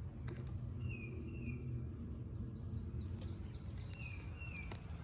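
Wild birds calling: two pairs of short, slightly falling whistled notes, about a second in and again near the end, with a quick series of higher chirps between them, over a steady low rumble.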